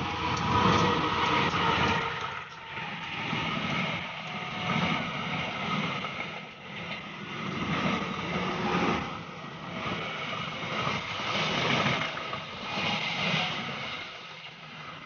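Train running past, a continuous rumble and rail noise that swells and eases several times.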